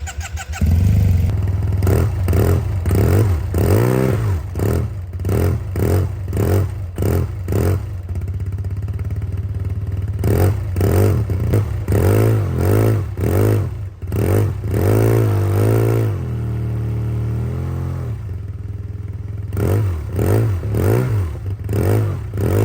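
Yamaha TMAX 500 scooter's parallel-twin engine exhausting through an aftermarket Arrow Race-Tech aluminium silencer, revved over and over in quick blips that rise and fall in pitch. It settles to a steady idle about three-quarters of the way through, then is blipped again near the end.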